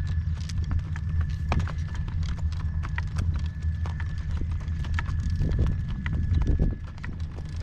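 Horse's hooves clopping at a walk, a steady run of irregular hoofbeats, over a heavy low rumble of wind on the microphone.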